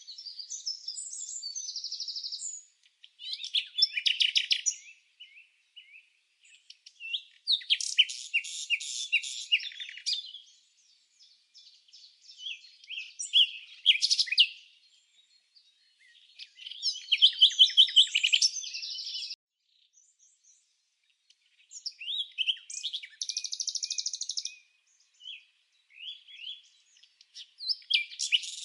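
Small songbirds chirping and singing in quick, high-pitched phrases of two to three seconds each, with short pauses between them.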